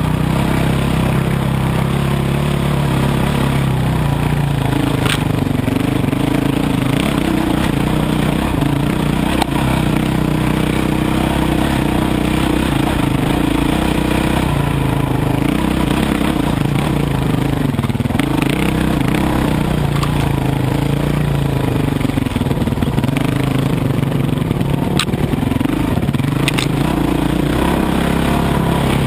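Dirt bike engine running while riding, its pitch rising and falling with the throttle, with a few sharp clicks.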